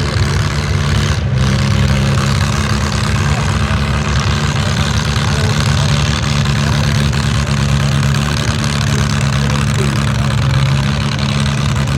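Antique farm tractor engine running steadily, with a brief dropout about a second in.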